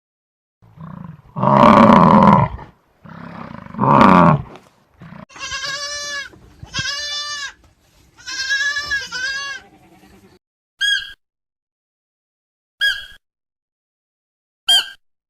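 Animal calls: two loud, low, drawn-out calls, then a string of wavering bleats from a goat-like or sheep-like animal, then three short identical high chirps about two seconds apart.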